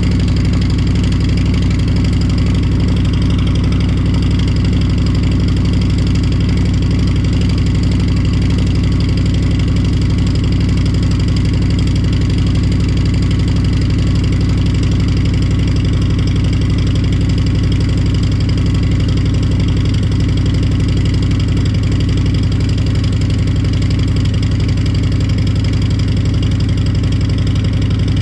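Harley-Davidson Fat Boy's Milwaukee-Eight 114 V-twin idling steadily through a Two Brothers Racing 2-into-1 shorty turnout exhaust, still warming up after a cold start.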